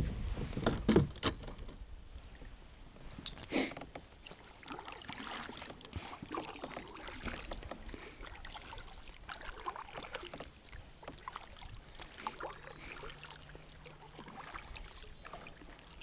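Quiet on-the-water sounds from a fishing kayak: a few sharp knocks against the hull in the first second or so and again about three and a half seconds in, then faint scattered clicks and light water sounds.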